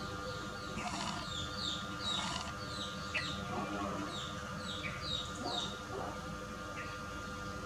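Small birds chirping: a busy run of short, high, downward-slurred chirps, several a second, over a faint steady hum.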